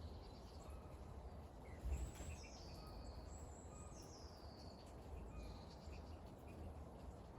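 Faint steady rain with a low rumble underneath, and a few short bird calls falling in pitch. A low bump about two seconds in.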